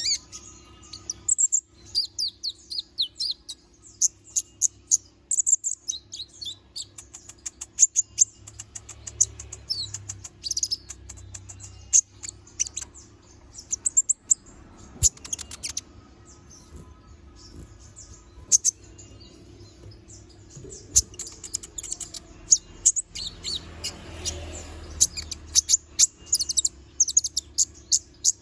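Kolibri ninja (konin), a small sunbird, singing a long run of rapid, sharp, high chirps and trills broken by short pauses. A faint steady low hum runs underneath.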